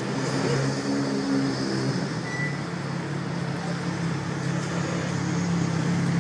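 A vehicle engine runs steadily with an even hum, and its higher tones fall away about two seconds in.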